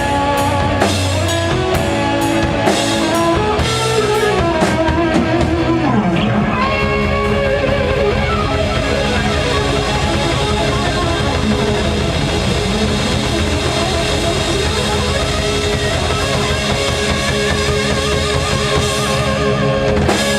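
Rock band playing live instrumentally: electric guitars and drum kit, with drum hits for about the first six seconds, then held, ringing guitar chords without drum strikes for the rest.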